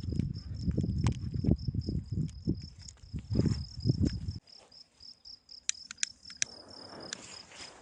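A cricket chirping in a steady rapid pulse throughout. For the first four seconds or so, loud low rumbling thuds sit under it, then stop abruptly; a few sharp clicks follow about six seconds in.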